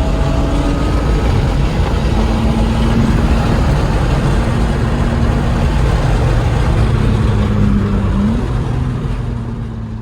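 BMW E36 M3 straight-six running at a steady cruise under a dense rumble of road and wind noise, the engine note rising briefly a little after eight seconds before the sound eases off toward the end.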